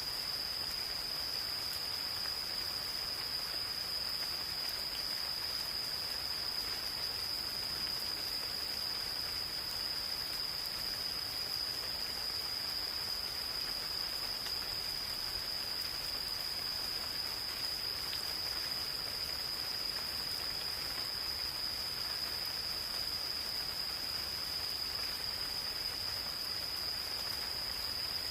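Gentle rain falling steadily in a forest, with insects keeping up one unbroken high-pitched trill at a single pitch.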